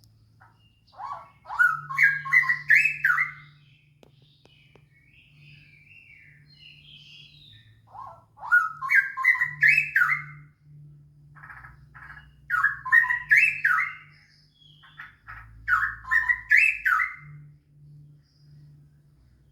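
Straw-headed bulbul (cucak rowo) singing: four loud, bubbling phrases of about two seconds each, made of stepped notes that climb in pitch, with softer chattering calls in the pauses.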